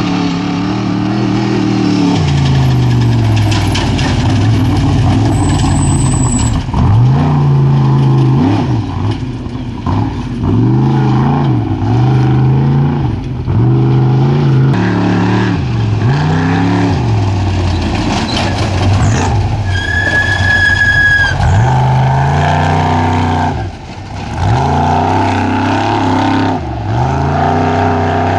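Off-road race truck engines revving hard, the pitch rising and falling over and over as they accelerate and back off. About twenty seconds in there is a short, steady high-pitched tone, like a horn or whistle.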